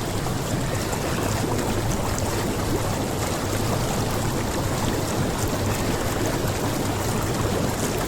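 Jacuzzi air jets churning the water in a steady, unbroken bubbling rush.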